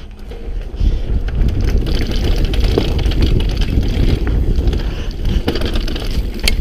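Mountain bike riding fast over rough trail: continuous rumble of tyres and frame over the ground with frequent rattles and knocks, and wind buffeting the microphone. The noise swells about a second in.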